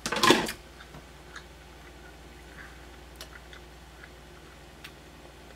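A short clatter at the start, like a utensil set down in a metal pot. Then faint, scattered small clicks and mouth sounds as a man chews a bite of pickled carp.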